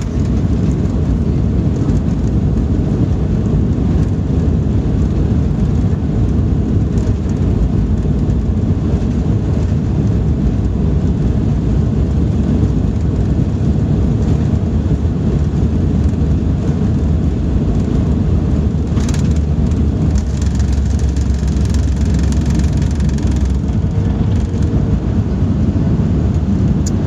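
Boeing 737 jet engines running at takeoff power: a loud, steady, deep rumble.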